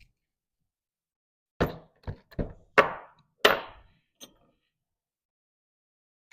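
Five sharp, irregularly spaced knocks as parts or tools are handled during front axle assembly, the last two the loudest, then a faint tap.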